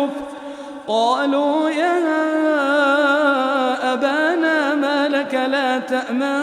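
Male Quran reciter chanting in melodic tajweed style, holding long notes with wavering ornaments. There is a short breath pause about the first second before the voice comes back in.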